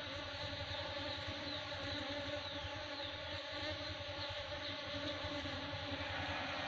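Asian honey bees (Apis cerana) buzzing as they work flowers for pollen, a steady, dense hum of many wings, with a few faint short high chirps over it.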